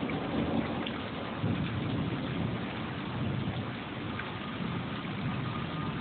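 Rain falling steadily during a thunderstorm, with low rolling thunder rumbling underneath that swells and eases.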